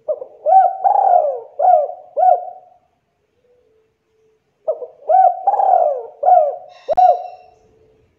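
Spotted dove (tekukur) cooing: two phrases of repeated rolling coos, one at the start and another after a pause of about two seconds. A brief click sounds near the end of the second phrase.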